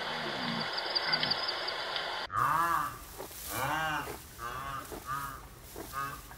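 Open-air background with faint low calls from a red deer herd, then, after an abrupt cut, a series of short rising-and-falling calls from white rhinoceroses, about two a second.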